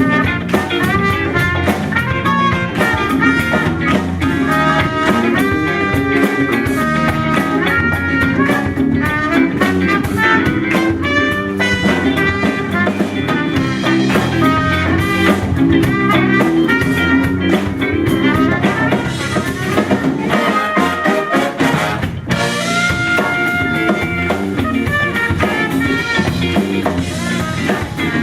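Live soul-funk band playing an instrumental with a horn section, drum kit and guitar, the horns playing held notes and riffs over a steady beat.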